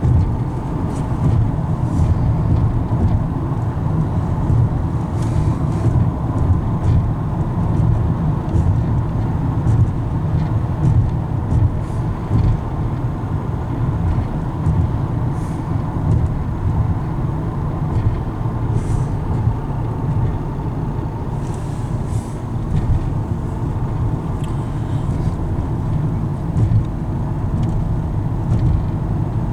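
Steady road and engine noise heard from inside a moving car: an even low drone with no sharp events.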